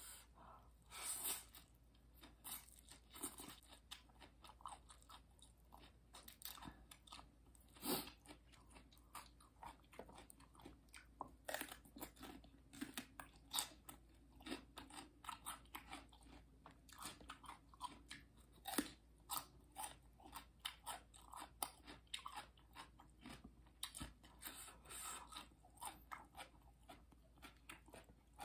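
Close-miked chewing of raw vegetables and noodles: irregular crisp crunches, several a second, with louder bites now and then.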